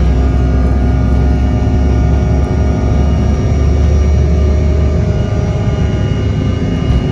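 Jet airliner engines heard from inside the passenger cabin: a loud, steady rumble with several steady whining tones over it.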